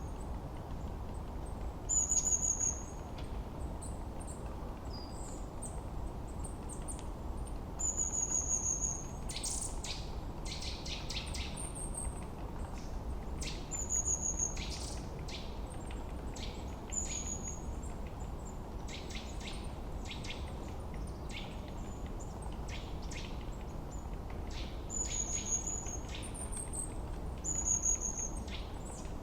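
Forest birdsong: one bird repeats a short, high whistled note that falls slightly, every few seconds, while other birds give quick chirps, thickest in the middle, all over a steady low rush of ambient noise.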